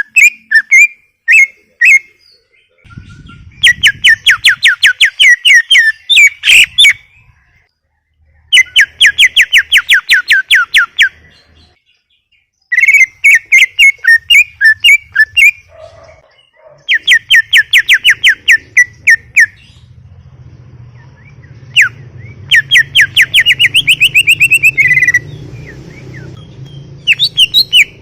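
A cucak ijo (greater green leafbird) singing loudly and continuously: phrases of rapid, sharp repeated notes, several a second, each run lasting two or three seconds and broken by short pauses.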